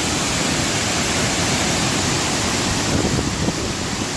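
A waterfall pouring over a dam in heavy flow: a steady, loud rush of falling water.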